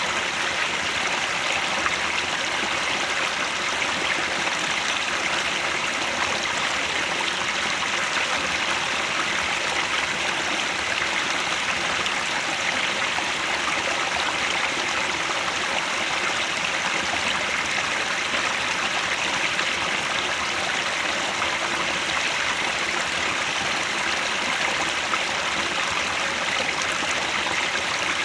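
Mountain headwater stream flowing, a steady, even sound of running water with no change throughout.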